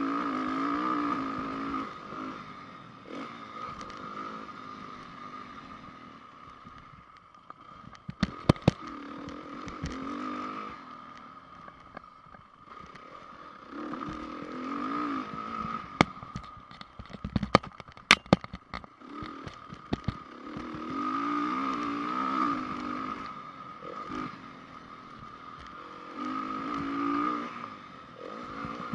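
2010 Honda CRF450's single-cylinder four-stroke engine revving up and down over and over as the bike is ridden round a motocross track. Clusters of sharp knocks and rattles come about eight seconds in and again around sixteen to eighteen seconds in.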